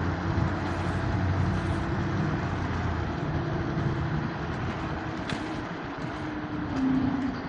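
Street traffic with a motor vehicle's engine humming steadily close by, its pitch shifting slightly near the end.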